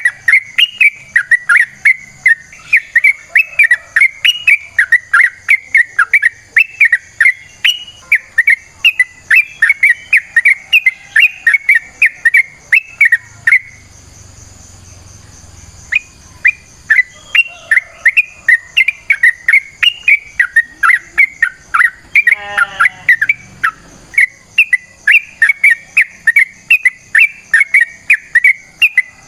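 Yellow-vented bulbul (trucukan) singing a long run of quick, repeated whistled notes. It stops for about two seconds near the middle, then starts again.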